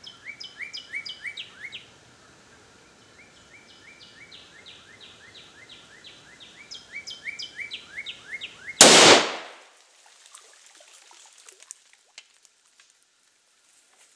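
A songbird sings fast runs of short downslurred notes, about six a second, in two spells. About nine seconds in, a sudden loud bang with a fading tail of about a second cuts it off, leaving only faint scattered ticks.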